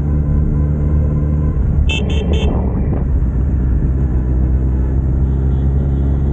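A vehicle engine running steadily, with three quick, high-pitched horn beeps about two seconds in.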